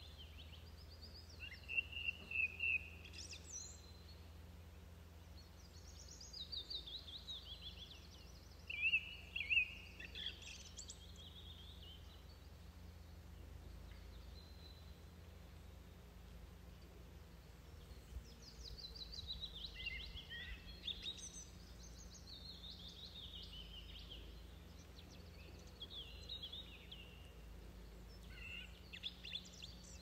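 Songbird singing outdoors in about five short bouts of quick, falling trilled phrases, with pauses of several seconds between them, over a steady low background rumble.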